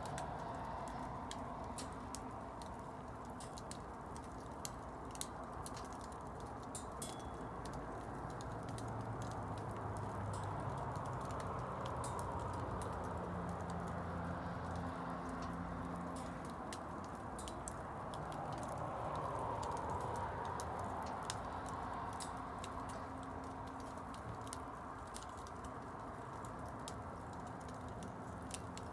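Wood bonfire burning, crackling with irregular sharp pops and snaps over a steady low rush.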